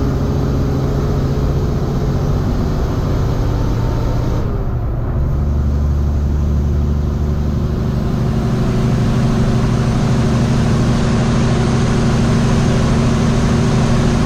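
Semi truck's diesel engine running under load while hauling a heavily loaded refrigerated trailer. The engine note breaks off briefly about four and a half seconds in and then comes back higher and steady, as with a change of gear or engine speed.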